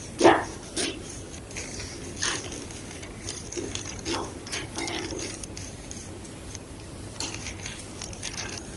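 White gym chalk being crunched and crushed: irregular crisp crackles and crunches, one sharp loud crunch just after the start and softer ones scattered through the rest.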